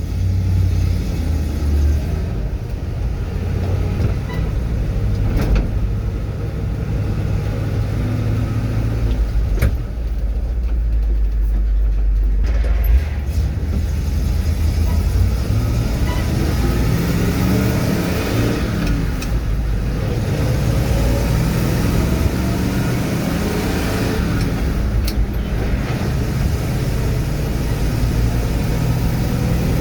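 Truck engine running as the truck drives along the road, its pitch climbing about halfway through as it speeds up.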